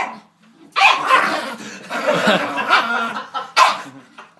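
A pet dog barking and growling at a door in one long, angry run of vocalising, with sharp barks at the very start and about three and a half seconds in.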